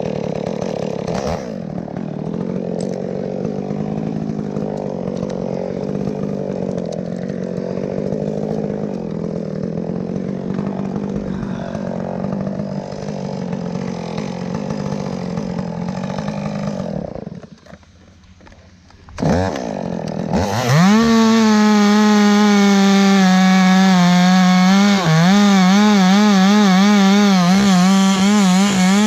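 Two-stroke chainsaw running at a steady speed, then cutting out about 17 seconds in. About two seconds later it starts again and revs up to full throttle, and its speed dips and recovers as it cuts into wood.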